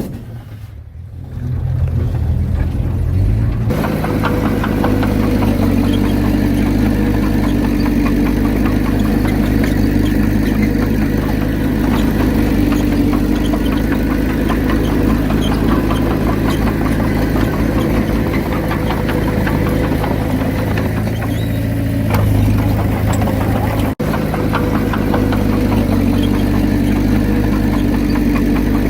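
Heavy diesel engine of earthmoving machinery running steadily. It comes in abruptly and much louder about four seconds in, then holds an even drone, with a momentary gap near the end.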